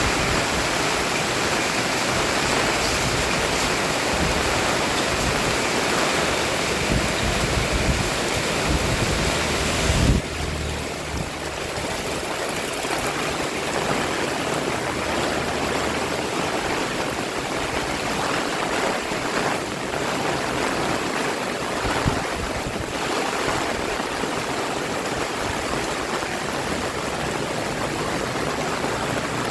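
Heavy pouring rain: a steady rushing hiss of water. About ten seconds in there is a brief knock, and then the rush turns slightly quieter and duller.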